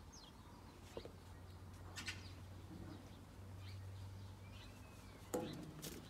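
Faint, scattered bird chirps over a low steady hum, with a few soft knocks and scuffs, the loudest about five seconds in.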